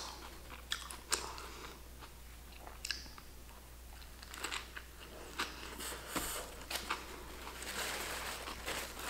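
Close-miked biting and chewing of a sub sandwich, with soft wet mouth clicks. Near the end a paper napkin rustles as it is unfolded.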